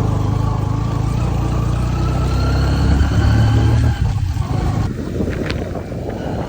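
Motorcycle engine running under way, its pitch rising about two to three seconds in, then easing off about four seconds in.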